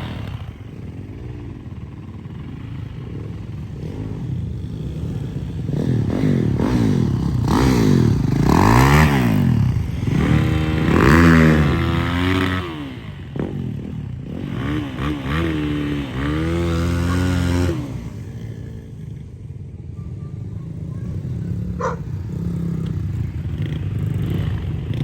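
Dirt bike engines running, revving up and back down several times, so the pitch climbs and falls repeatedly; loudest in the middle of the stretch, then settling to a steadier, quieter run.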